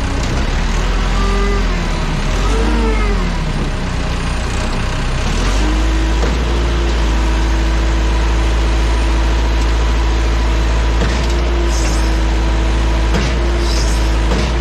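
Engine of an airport ground-handling vehicle revving up and down a few times, then running steadily at a raised speed from about five seconds in, with a strong low rumble.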